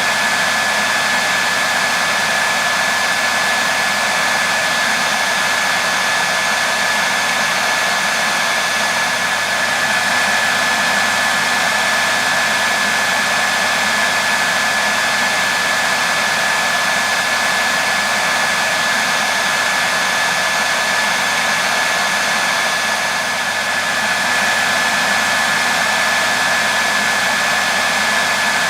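Hair dryer running steadily, a continuous rushing blow of air with a constant high whine from its motor and fan.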